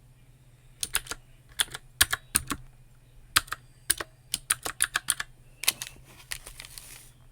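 Typing on a computer keyboard: close-up keystrokes in quick irregular runs, starting about a second in, with a brief soft rustle near the end.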